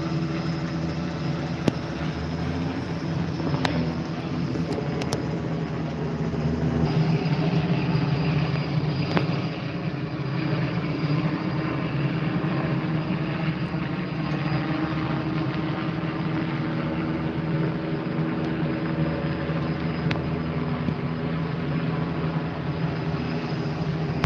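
Steady engine drone with a constant low hum and a few faint clicks.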